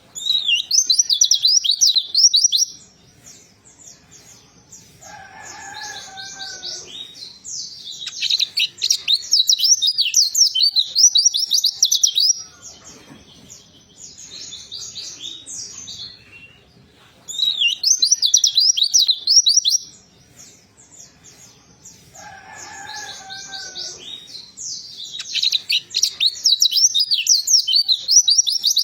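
Pleci (white-eye) singing: four bursts of rapid, high, twittering song, each two to four seconds long with short pauses between them. A lower, slurred call comes in twice, about five seconds in and again near the end.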